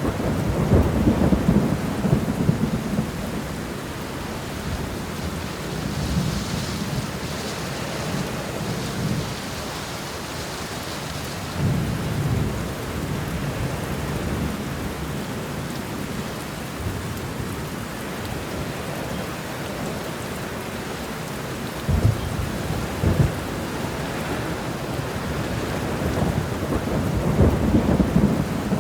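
Steady rain with thunder: low rolling rumbles at the start, again about twelve seconds in and building near the end, and two sharp thunder cracks a second apart a little past twenty seconds.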